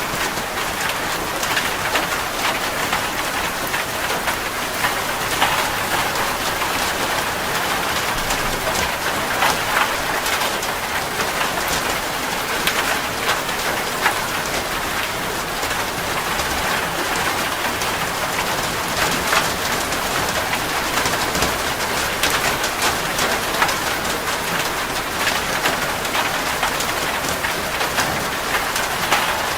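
Steady rain falling, with many individual drops ticking on a surface throughout.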